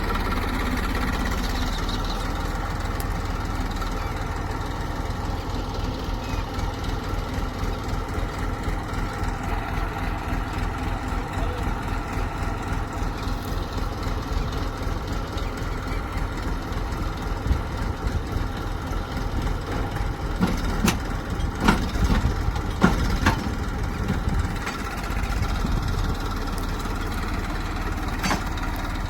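Heavy farm or earth-moving machine's diesel engine running steadily at low speed, with a few sharp metallic clanks about three-quarters of the way through and one more near the end.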